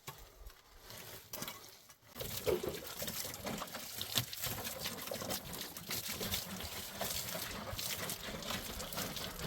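Water running, with a dense crackle of small splashes that sets in about two seconds in after a quieter stretch.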